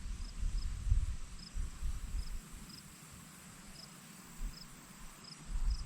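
An insect chirping in short, evenly spaced high chirps, about two a second, over a low rumble that fades in the middle and returns near the end.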